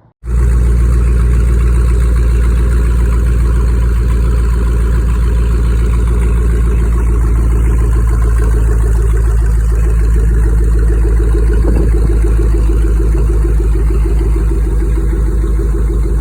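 A 2004 Chevy Silverado's 5.3-litre V8 idling through a straight-piped exhaust with no mufflers: a loud, steady, deep exhaust note that cuts in abruptly just after the start.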